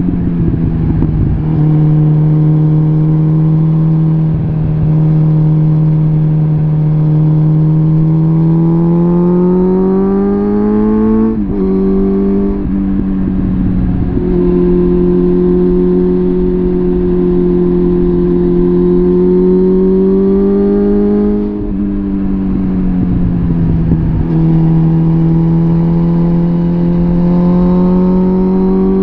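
Suzuki GSF650 Bandit's inline-four engine through a full Arrow exhaust system, under way: the engine note holds steady, climbs, then drops sharply at an upshift about 11 seconds in. It holds and climbs again to a second upshift about 22 seconds in, eases off for a moment, then pulls steadily and rises once more near the end.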